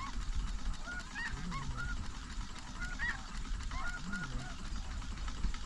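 Snow goose calls: an overlapping chorus of short, high, yelping honks, with a lower call coming about every two and a half seconds.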